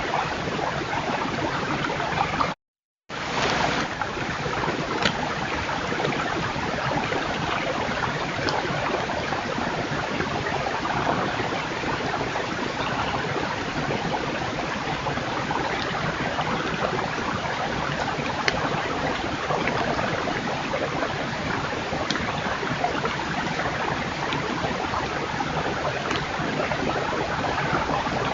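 Steady rushing hiss, like running water or wind, on a trail camera's recording, cut off by a brief total dropout about three seconds in.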